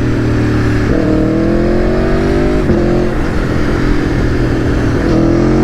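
Aprilia Tuono V4 1100's V4 engine pulling under acceleration: the revs climb, drop sharply at an upshift about two and a half seconds in, then climb again near the end, over wind noise.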